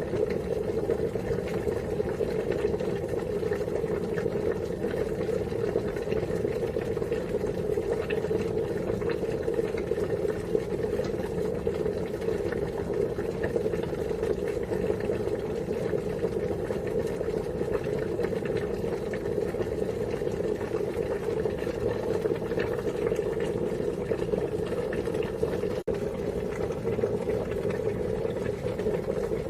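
Water boiling at a steady rolling boil, a continuous bubbling with a split-second dropout near the end.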